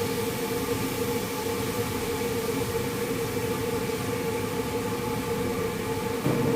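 A steady mechanical hum with a constant tone over a hiss, and a brief knock near the end.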